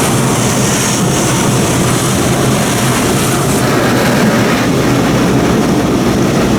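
Steady, loud rushing noise of an automatic car wash heard from inside the car as it rolls slowly through the spot-free rinse arch. The high hiss eases about three and a half seconds in.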